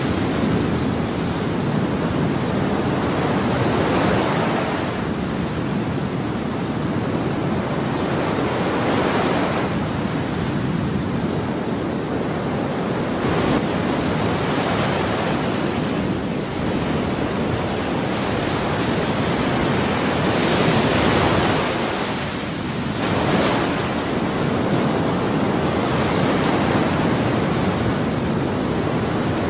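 Ocean waves breaking on a shore in a continuous wash of surf, with waves swelling and washing in every few seconds.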